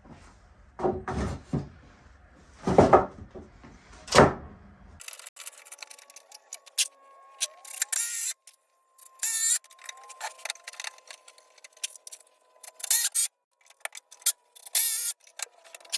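Workshop knocks and thuds from wood being handled and fastened, with a few loud single blows in the first few seconds. About five seconds in the sound changes abruptly: the low end drops away and it turns thin and tinny, a quick patter of clicks and rattles over a steady faint tone.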